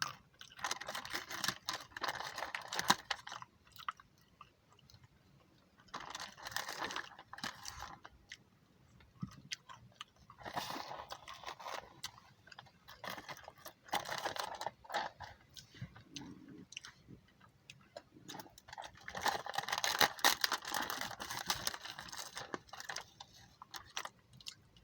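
A person chewing crunchy food close to the microphone, in about five bouts of crunching separated by short pauses.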